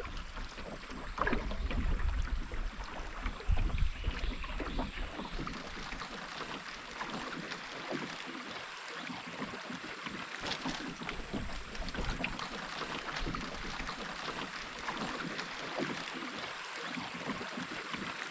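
River water lapping and trickling around a canoe, a steady watery hiss with scattered small splashes and ticks. There are low rumbles in the first few seconds.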